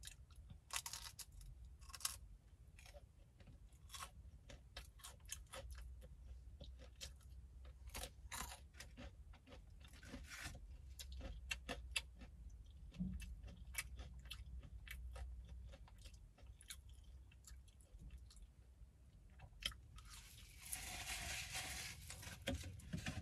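A person chewing crispy fried chicken strips close to the microphone, with many irregular crunchy clicks and mouth noises. A steadier noise lasts about two seconds near the end.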